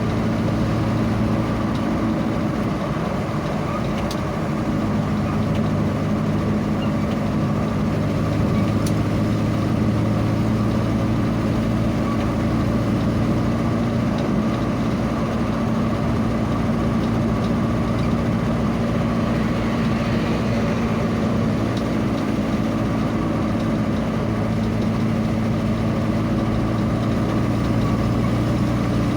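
A vehicle's engine running at a steady, unchanging pitch, a constant low hum over a rushing noise.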